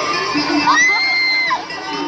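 Concert crowd cheering and screaming, full of high-pitched shrieks, with one long high scream held for about a second in the middle.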